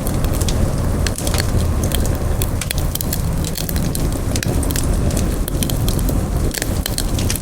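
Campfire burning with a steady low roar and frequent sharp, irregular crackles and pops of burning wood.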